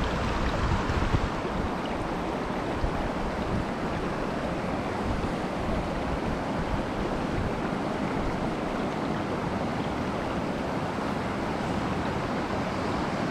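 Steady rushing of a shallow mountain stream running over rocks.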